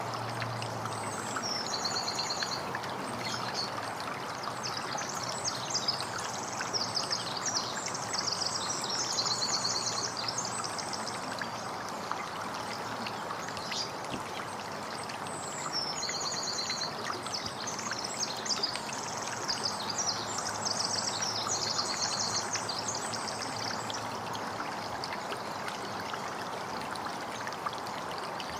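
Steadily trickling, running water with a songbird singing over it. The bird sings twice, each time a run of rapid, high, repeated notes lasting several seconds.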